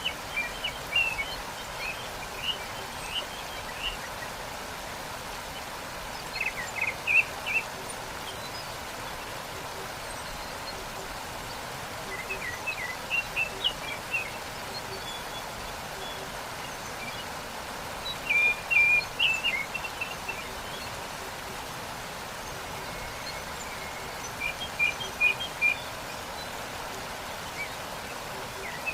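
Waterfall rushing steadily, with a small songbird singing short chirping phrases over it about every six seconds.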